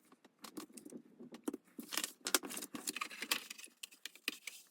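A thin plywood part being worked out of its pre-cut sheet by hand, with many small irregular clicks and crackles as the holding tabs give way and the wood is handled.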